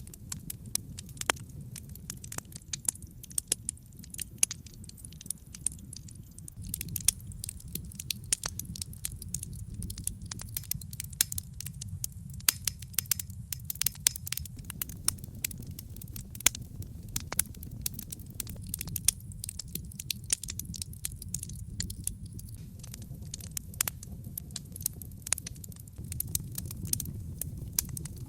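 Wood fire crackling in a brick fireplace: a steady low rumble of flames under frequent irregular sharp snaps and pops from the burning logs.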